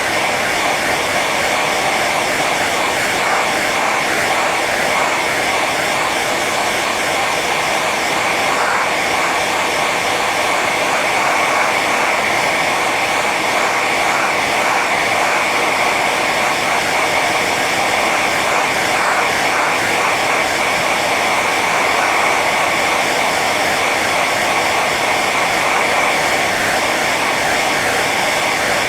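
Hair dryer blowing on its high setting: a steady, unbroken rush of air and motor whine with a strong tone around the upper middle of the range.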